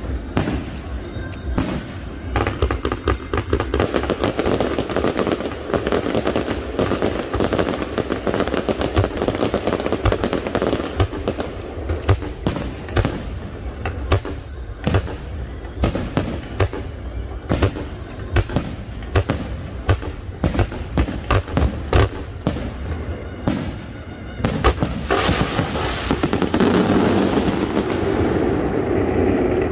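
Aerial fireworks shells bursting in quick, irregular succession, a dense string of sharp bangs. About 25 seconds in, a louder, continuous crackling takes over as a finale of crackling stars fills the sky, and it stops suddenly shortly before the end.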